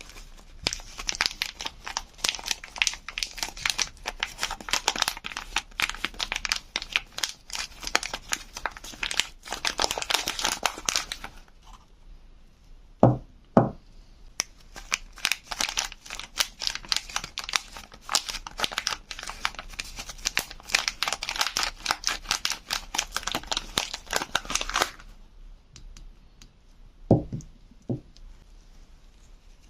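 Soap wrapping being crinkled and torn open, a dense crackle in two long stretches. Two short knocks sound in the pause between them, and two more near the end.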